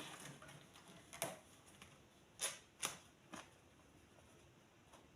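Mostly quiet, with a handful of faint, scattered clicks and rustles: hands working the manual sewing machine and its fabric once the stitching has stopped.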